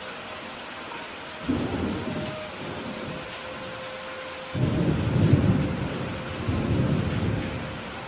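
Steady rain hiss with thunder rumbling through it. A short rumble comes about one and a half seconds in, then a louder, longer rumble from about four and a half seconds swells twice before fading.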